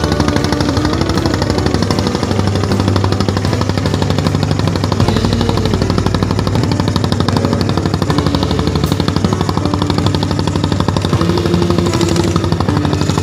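Fishing boat's inboard engine running with a rapid, even knocking beat, a very distinctive sound.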